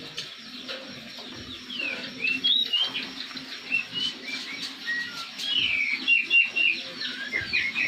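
Songbirds chirping and calling in many quick, whistled notes that sweep up and down, getting busier about two seconds in. A faint steady low hum sits underneath.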